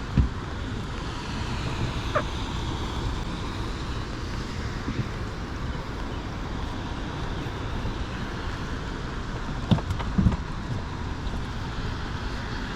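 Steady wind rumble on the microphone with water noise around an open boat, broken by a few sharp knocks, two of them close together near the end.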